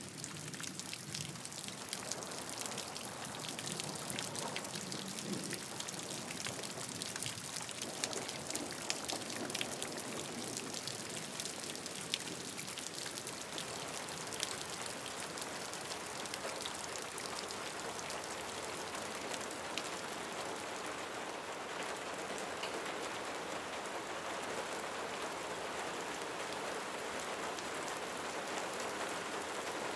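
Steady rain falling on a roof, with many individual drops ticking sharply through the first half before it settles into an even, dense hiss.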